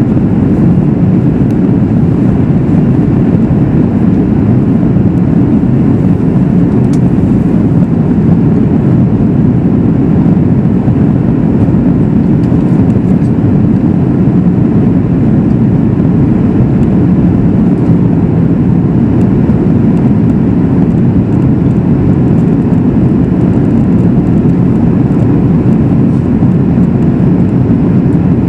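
Steady in-flight cabin noise inside a Boeing 737 MAX 8: an even, low rush of airflow and engine noise from its CFM LEAP-1B engines, unchanging throughout.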